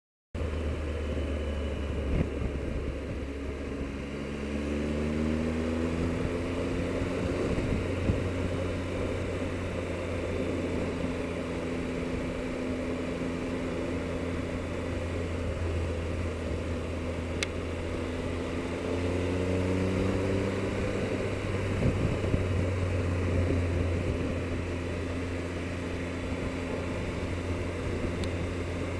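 Triumph Explorer motorcycle's three-cylinder engine running under way over a steady rush of noise. The engine pitch rises twice as the bike accelerates, about four seconds in and again past the middle.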